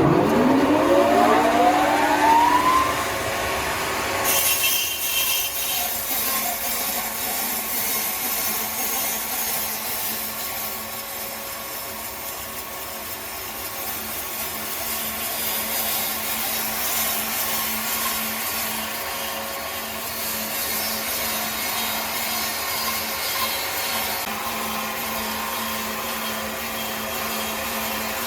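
Large sawmill saw's motor spinning up, its whine rising in pitch over the first few seconds. About four seconds in the blade bites into the log, and a steady hissing cutting sound over a low hum carries on from there.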